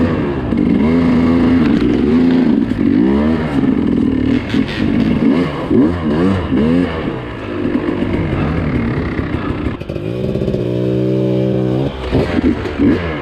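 Dirt bike engine revving up and down over and over, then settling to a steady idle for a couple of seconds about ten seconds in, and revving again near the end.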